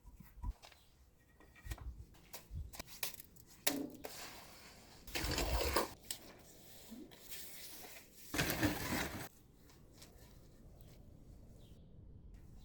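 Masonry work on a limestone wall: scattered clicks and knocks of stone and tools, with two rough scraping noises about a second long, one around the middle and one near nine seconds in.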